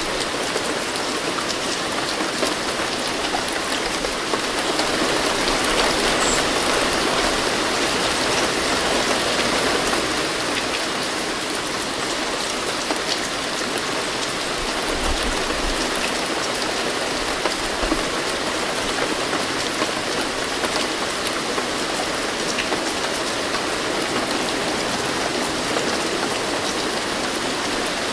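Steady rain falling and pattering on surfaces, a dense even hiss that swells slightly a few seconds in.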